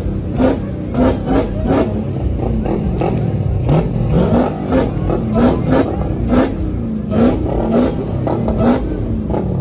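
Car engine being revved in quick repeated throttle blips, about two a second.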